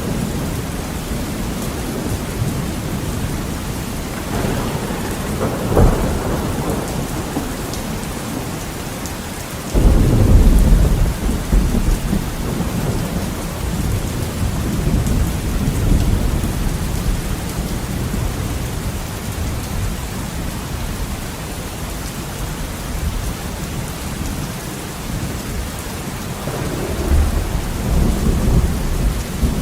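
Heavy rain pattering steadily on a window, with thunder: a rumble building to a crack about six seconds in, a sudden loud thunderclap about ten seconds in that rolls on for several seconds, and another rumble near the end.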